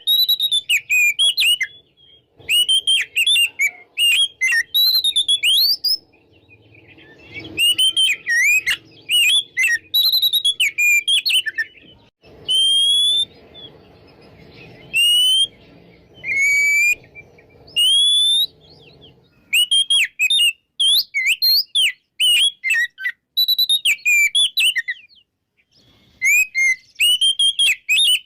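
Oriental magpie-robin (kacer) singing in full, open song: rapid runs of varied whistles and chirps with sliding notes, each run lasting a few seconds and broken by short pauses.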